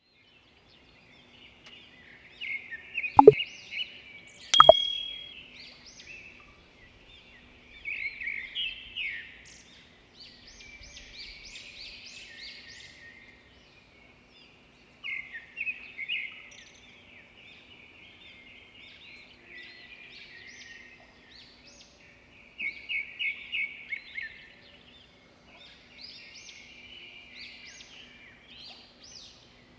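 Small birds chirping and twittering in repeated quick series of short high notes, with two sharp clicks about three and four and a half seconds in.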